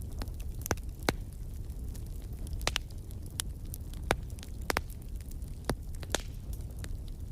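Wood fire burning in a fireplace: a steady low rumble with irregular sharp crackles and pops, about a dozen, the loudest about a second in and near four seconds.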